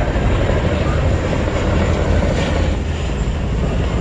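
Aircraft turbine engines running steadily, a loud rumble with a thin, steady high whine throughout.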